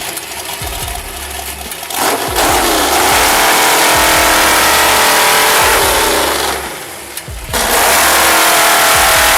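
An engine revving hard, starting about two seconds in, its pitch sagging and recovering as it takes load. It drops away briefly near the seven-second mark, then runs loud again.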